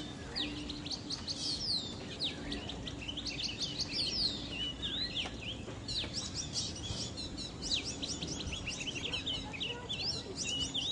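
Many small birds chirping and twittering at once, a dense run of quick, overlapping high calls, thickest after about six seconds in, over a faint steady low hum.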